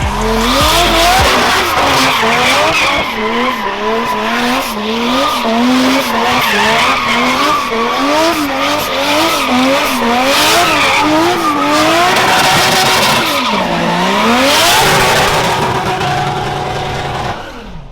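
Vehicle doing a burnout: the engine revs up and down about one and a half times a second while the spinning tyres squeal, then drops low and climbs again before letting off near the end.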